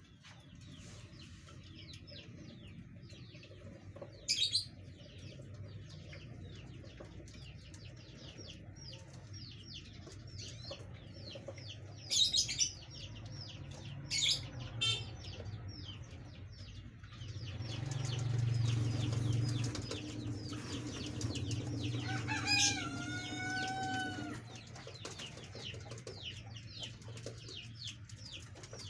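Green leafbird (cucak ijo) calling in fast runs of short, sharp high notes, with a few louder outbursts. A longer drawn-out call comes about two-thirds of the way in, and a low hum rises under the calls for a couple of seconds in the middle.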